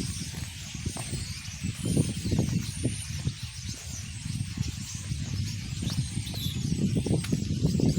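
A large flock of birds calling all at once: a dense mass of overlapping high chirps and squeaks, over a loud, uneven low rumble.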